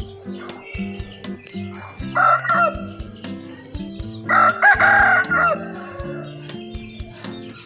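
Aseel rooster crowing twice, a short crow about two seconds in and a longer one about four seconds in, over background music with a steady beat.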